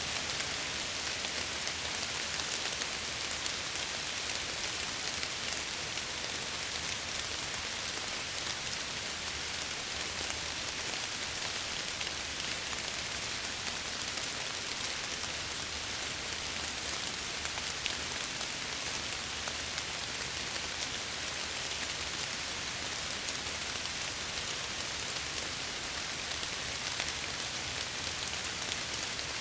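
Steady rain, with a fine patter of drops against window glass.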